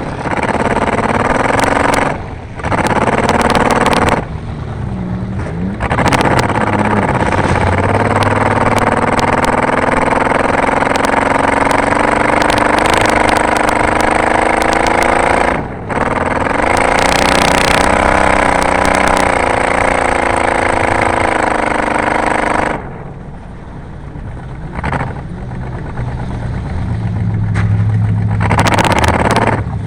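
Car engine running hard under race conditions, its pitch rising and falling with the throttle. It eases off briefly a couple of times and drops to a quieter run for several seconds in the last third.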